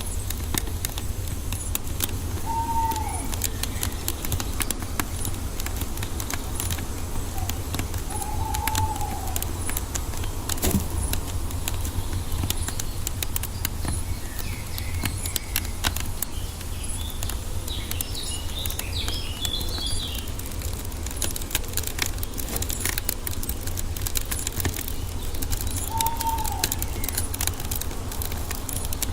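Wood fire crackling with constant sharp pops and snaps over a steady low rumble. A bird calls with a short rising-and-falling note three times, and higher chirps come in about two-thirds of the way through.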